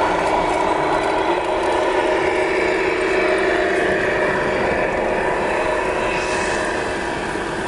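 Radio-controlled model truck running: a steady whine with several held tones, easing off slightly near the end.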